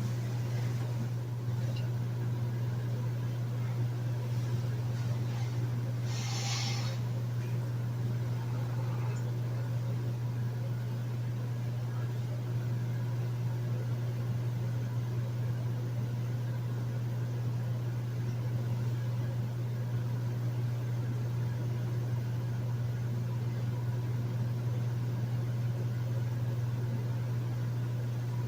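Hotel room air conditioner running steadily: a strong low hum with an even wash of airflow noise over it. A short, higher hiss cuts in briefly about six seconds in.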